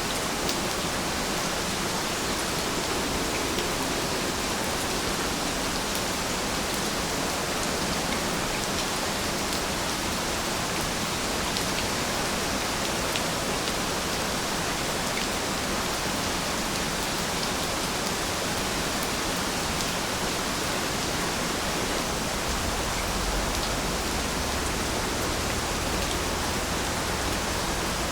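Steady rain falling, an even hiss with scattered individual drop ticks. A faint low rumble comes in briefly about two thirds of the way through.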